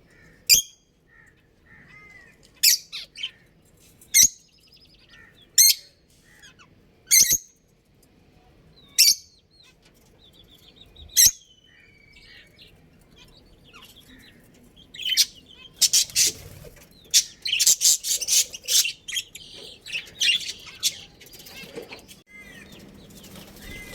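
Budgerigars chirping: sharp single chirps every second or two, then a dense burst of overlapping chirps and chatter past the middle.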